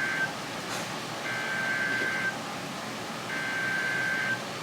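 Electronic alert beeps coming over a radio: a single steady tone repeated three times, each about a second long and about two seconds apart, over steady radio hiss.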